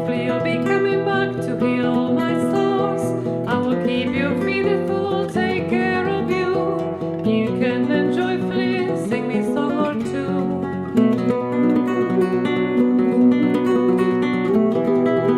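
Acoustic guitar strummed and picked in an upbeat folk song.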